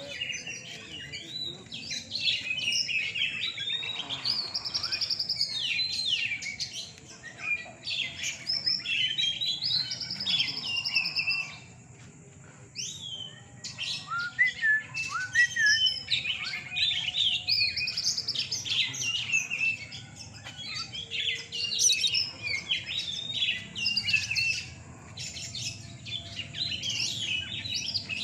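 Oriental magpie-robins (kacer) singing in a contest: a dense run of rapid, varied whistled phrases and chirps, dropping back briefly twice before picking up again.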